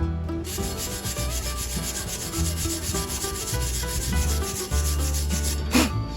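Stick-welding arc crackling and sizzling steadily as the electrode burns. It starts about half a second in and stops near the end with a short sharp burst.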